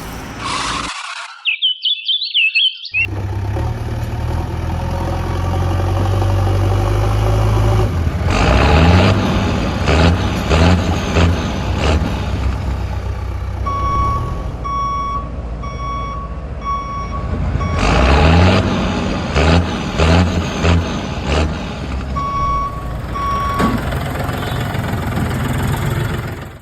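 Heavy diesel machine running steadily, then revving in short repeated bursts, with a reversing beeper pulsing in two spells between the revs. A brief high warbling sound comes about two seconds in.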